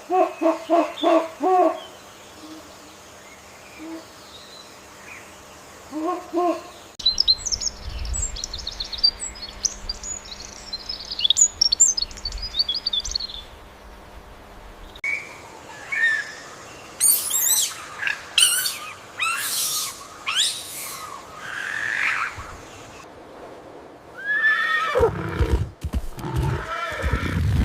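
A string of different animal calls, one after another: a run of short hoots, then high chirping, then sweeping high calls that rise and fall, and another call near the end.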